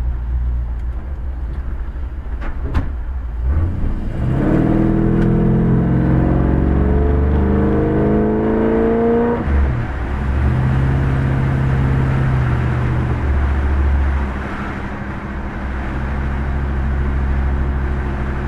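Small-block Chevy 350 V8 through Thrush turbo mufflers, heard from inside the car's cabin, accelerating hard. Its pitch climbs for about five seconds, breaks briefly at a gear change, then settles into a steady cruise with a low drone.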